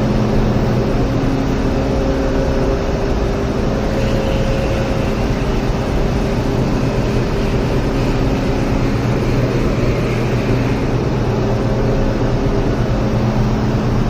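Steady mechanical hum of running machinery: a constant low drone with a few held tones over a wash of noise.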